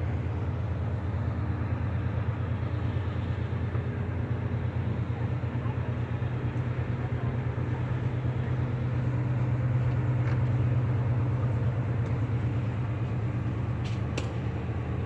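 Large diesel engine running with a deep, steady throb and a fast even pulse, swelling a little about two-thirds of the way through.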